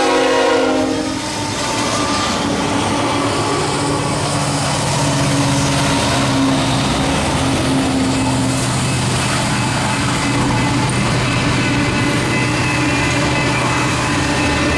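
A multi-unit diesel freight train passing close by at speed. The lead locomotive's air horn cuts off about a second in. The diesel engines of the trailing GE and EMD locomotives then run past with steady tones, and covered hopper cars roll by on the rails near the end.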